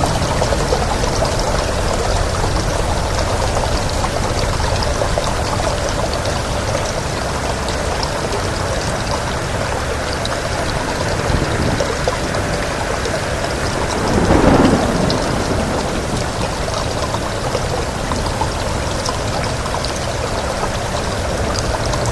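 Steady rain falling as a dense, even hiss, with one brief louder swell a little past the middle.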